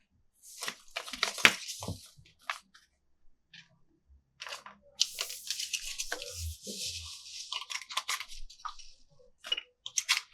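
Toy packaging handled up close: plastic wrap crinkling and tearing in two spells, one short near the start and a longer one from about the middle, with clicks and light knocks of plastic parts between.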